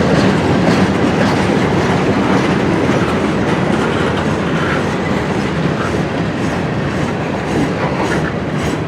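Freight cars of a long mixed freight train rolling past, wheels clicking and rumbling over rail joints in a steady, loud rush that eases slightly toward the end.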